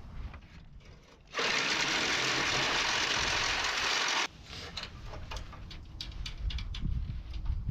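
A power tool runs in one burst of about three seconds, starting and stopping suddenly, followed by light clinks of metal parts and tools, during disassembly of a car's engine bay.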